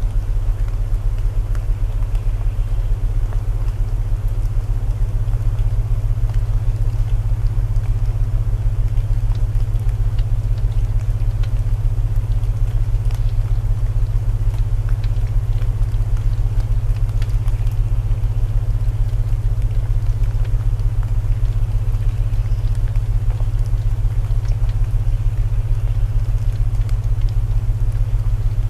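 Layered sleep soundscape: steady deep binaural tones, the loudest part, over an even hiss of rain and scattered small crackles of burning wood.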